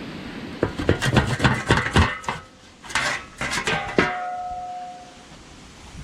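Irregular metallic clanks and knocks, like metal parts being struck or handled. The last one leaves a ringing tone that dies away over about a second.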